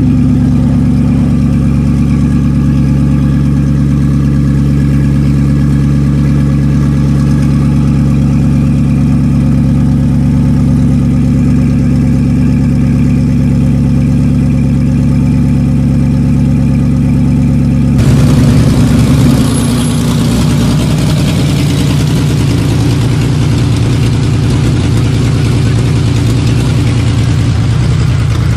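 Koenigsegg Regera's twin-turbo V8 idling steadily. About 18 seconds in there is an abrupt change to the engine running as the car drives along a road, a noisier, less even sound.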